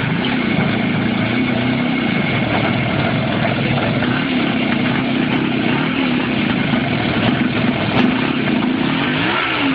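A vehicle engine runs steadily under a loud rush of noise. Its pitch rises and falls a little a few times, with a short rise and fall near the end.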